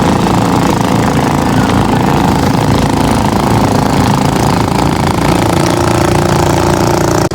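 An engine running steadily with a fast, rattling low pulse.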